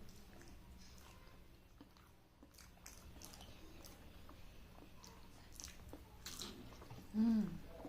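Close, wet chewing and sticky mouth sounds of eating rice pudding by hand, with soft smacking clicks. A short voiced sound comes near the end.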